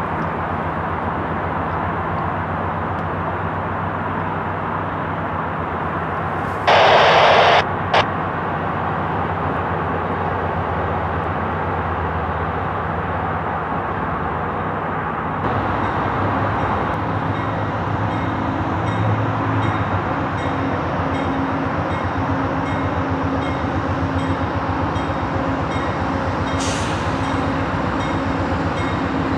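A train rolling past with a steady rumble of engines and wheels on rail, growing a little louder and brighter partway through. About seven seconds in there is a loud burst of hiss lasting about a second, followed by a click.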